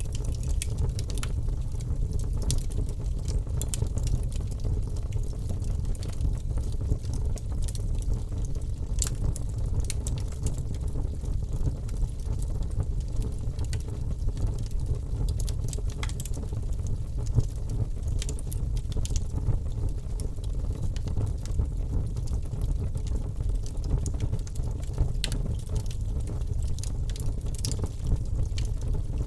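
Wood fire burning in a fireplace: a steady low rumble of the flames with frequent irregular crackles and pops from the logs.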